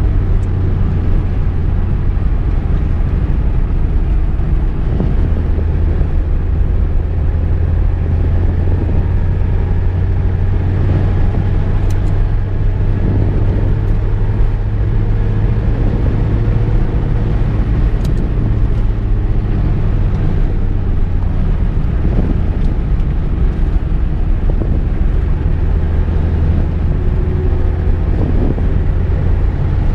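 Car being driven at a steady speed: a constant low engine and road drone with no change in pitch, and a few faint clicks in the middle.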